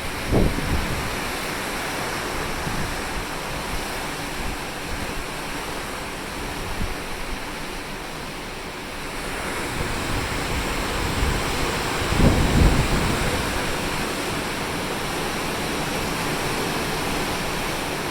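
Steady rush of open-sea wind and waves heard from a ship's deck, with wind buffeting the microphone in low rumbling gusts just after the start and again about twelve seconds in.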